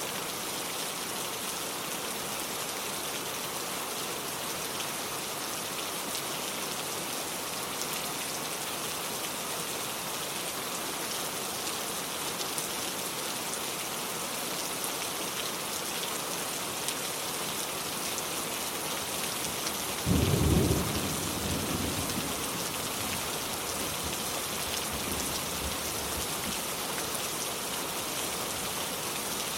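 Steady rain falling and pattering on hard surfaces. About two-thirds of the way through, a sudden loud clap of thunder breaks in and rumbles away over several seconds.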